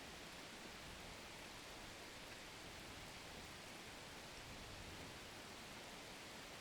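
Faint, steady hiss of falling rain, even and unbroken.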